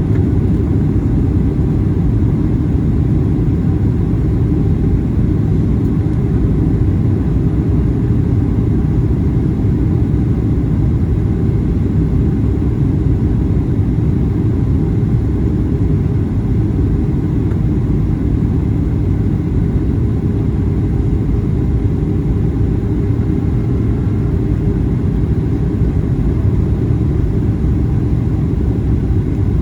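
Steady low rumble inside the cabin of a Boeing 737-800 in flight: its CFM56 engines and the airflow over the fuselage, unchanging throughout.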